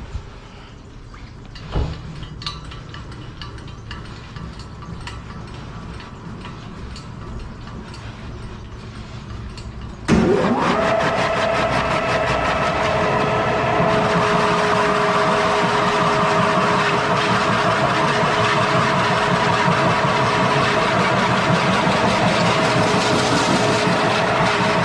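A few light knocks and clicks of handling. Then, about ten seconds in, a motor starts abruptly and runs steadily and loudly, with a steady hum in two tones.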